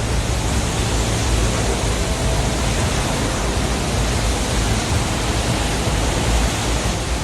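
Loud, steady rushing noise, with a low steady drone underneath.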